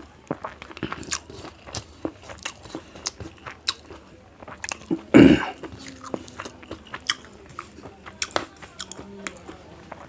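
Close-miked eating sounds: chewing, with many small wet smacks and clicks of the mouth and of rice mixed by hand. One louder mouth sound comes about five seconds in.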